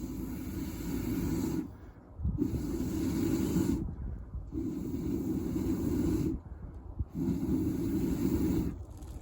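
A person blowing four long, strong breaths with short pauses between them, as when blowing air into a fire to get it going.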